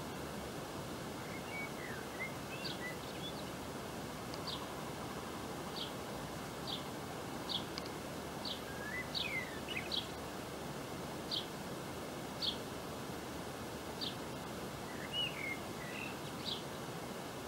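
Small birds calling outdoors: a string of short, high chirps about once a second, with a few lower twittering calls among them, over a steady background hiss.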